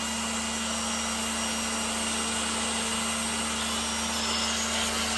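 Kärcher pressure washer running steadily, its motor humming under the hiss of the high-pressure water jet.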